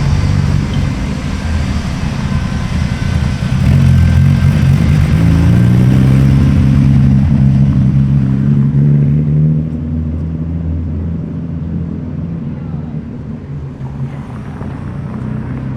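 A car engine pulling away and accelerating past, its note climbing in pitch about four seconds in, then easing back and fading after about ten seconds.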